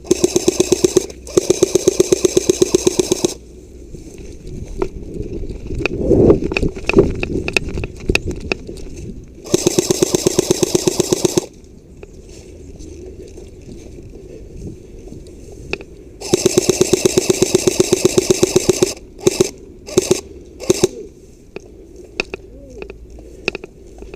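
Airsoft rifle firing on full auto in rapid bursts of evenly spaced shots: four long bursts of one to three seconds, then several short bursts near the end.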